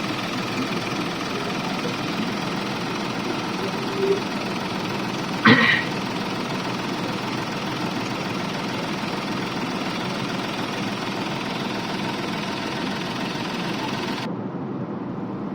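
Mahindra KUV100's three-cylinder diesel engine running steadily with a heavy vibration and knock, a fault traced to broken springs in the clutch plate and pressure plate. A single short clank about five and a half seconds in.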